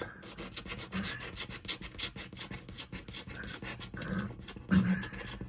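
A scratch-off lottery ticket being scratched, with quick, uneven rasping strokes across the coating to uncover the numbers.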